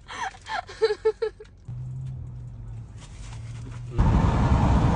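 Brief voice fragments, then a steady low engine hum, then a loud, even rushing noise that sets in suddenly about four seconds in.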